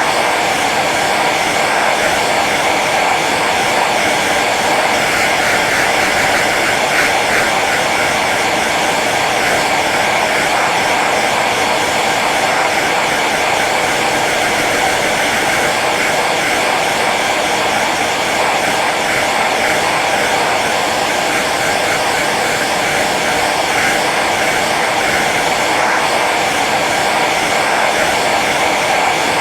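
Hair dryer running steadily on its low setting: an even rush of blown air with the motor's faint hum under it.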